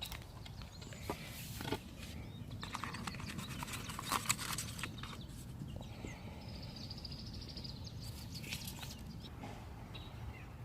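Footsteps scuffing along a path, in irregular clicks and scrapes, with a high trill about six or seven seconds in.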